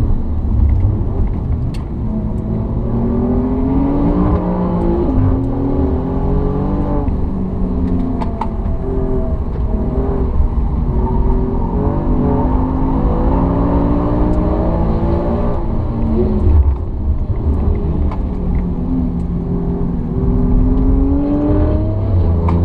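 Alfa Romeo Giulia Quadrifoglio's twin-turbo V6 heard from inside the cabin, pulling hard on track: the engine note climbs as the car accelerates and drops back sharply several times, with tyre and road noise underneath.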